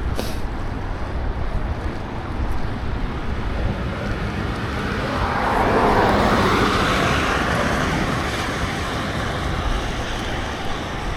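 Wind rumbling on the microphone of a moving bicycle ride, with a louder rushing noise that swells about halfway through and fades a couple of seconds later.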